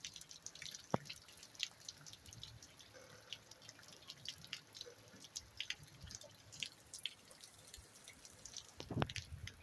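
Rainwater dripping: faint, irregular individual drops falling and splashing, with two louder knocks, about a second in and near the end.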